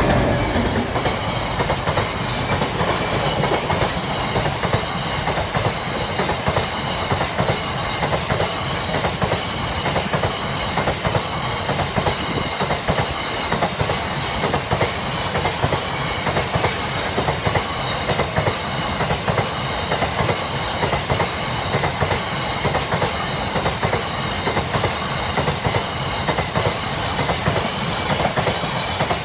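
Freight train of bogie oil tank wagons rolling past close by at speed: a steady heavy rumble with continuous clickety-clack of wheels over rail joints. Right at the start the tail of the Class 60 diesel locomotive's engine sound is passing.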